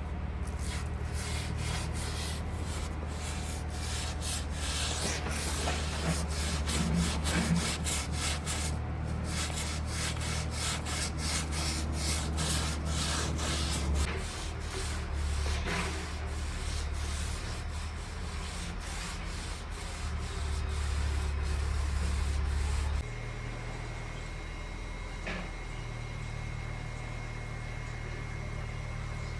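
Rhythmic scrubbing strokes, a few a second, over a steady low hum. The strokes stop about three quarters of the way through, leaving a quieter hum and a thin steady high tone.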